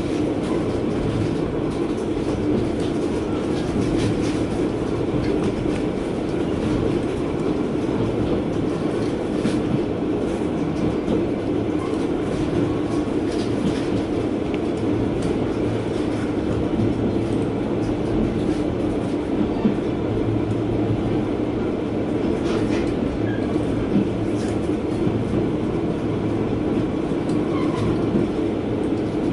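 Sankō Line KiHa 120 diesel railcar running along the line, heard from inside the cabin: a steady rumble of the engine and wheels on the rails, with scattered light clicks of the wheels over the track.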